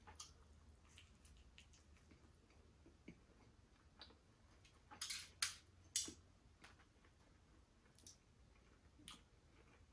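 Faint chewing of a slice of cheese pizza: scattered soft, irregular mouth clicks and smacks, a few of them louder about five to six seconds in.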